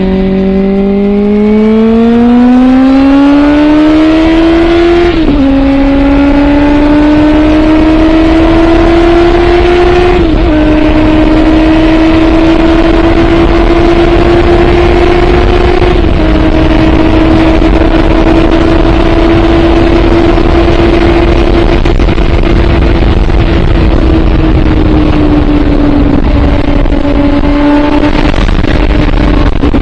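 Suzuki GSX650F inline-four motorcycle engine through a Scorpion aftermarket exhaust, accelerating hard with the pitch climbing, upshifting about five seconds in and again about ten seconds in, then holding a steady cruise and easing off slightly near the end. Wind rushes over the microphone throughout.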